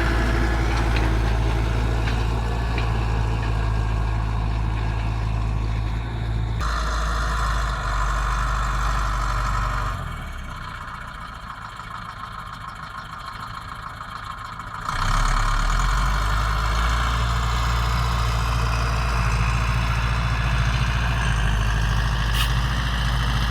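Zetor 9540 tractor's diesel engine running steadily. The sound changes about six and a half seconds in, drops quieter for about five seconds from around ten seconds in, then comes back up to its earlier level.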